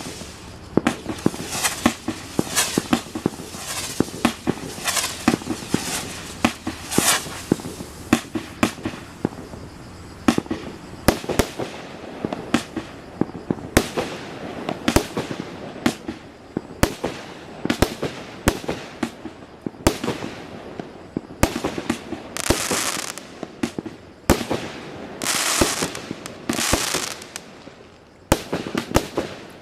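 Black Cat Excelsior firework going off: a continuous run of sharp bangs, several a second, mixed with longer hissing bursts lasting about a second each.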